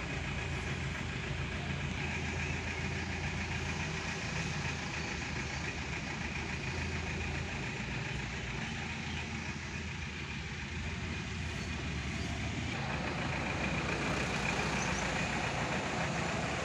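Car engine and road noise heard from inside the cabin: a steady low hum while the car moves slowly. The noise grows a little louder and brighter about thirteen seconds in.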